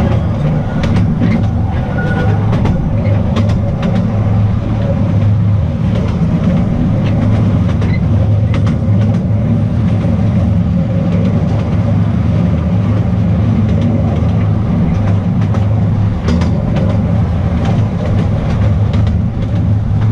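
Small narrow-gauge tourist train running along its track: a steady low rumble of wheels on rails with scattered clicks.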